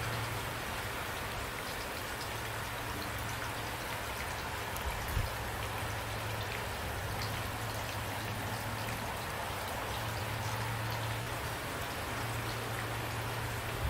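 Steady rain, with individual drops ticking over an even hiss. A low hum comes and goes beneath it, and there is a single brief low thump about five seconds in.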